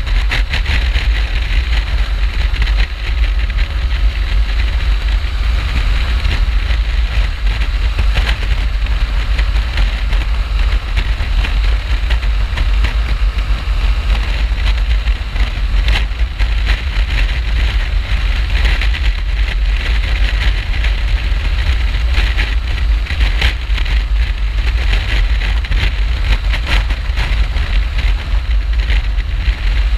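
A BMW R1200GS motorcycle riding at speed: steady, heavy wind rush on the microphone over the bike's running and road rumble.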